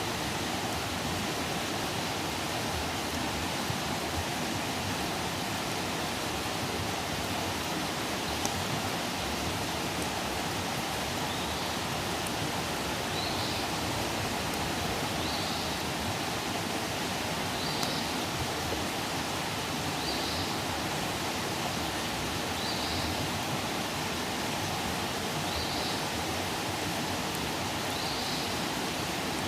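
Campfire burning: a steady hiss with a few faint pops. From about the middle on, a faint short high chirp repeats about every two and a half seconds.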